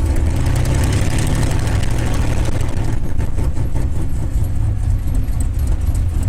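Rolls-Royce Merlin V-12 engine of a North American P-51 Mustang running steadily at high power for the takeoff, a loud, even, deep drone.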